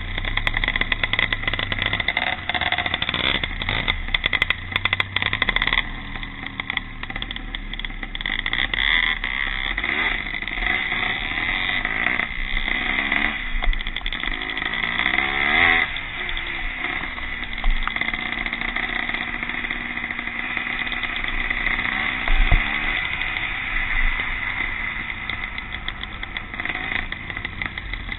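Vintage pre-1965 motocross motorcycles racing, their engines revving up and down, with one bike's pitch climbing and falling clearly about halfway through.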